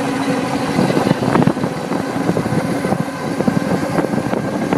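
Mini bike's small engine running under way, a rough, steady motor sound.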